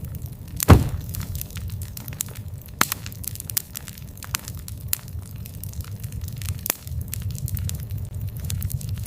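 Wood fire crackling, with many sharp pops and snaps over a steady low rumble of burning. The loudest pop comes just under a second in.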